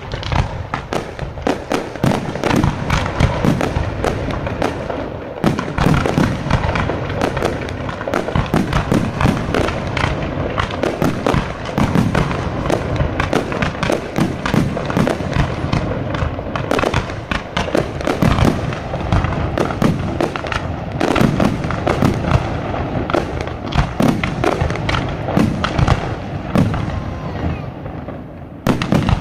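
Fireworks display: a dense, continuous barrage of sharp bangs, many per second. The bangs thin out briefly near the end, then loud ones start again.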